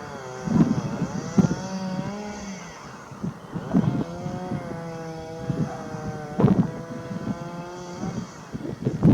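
A distant engine drones with a steady hum that wavers gently in pitch, fading out for about a second and coming back. Wind buffets the microphone in low rumbling gusts.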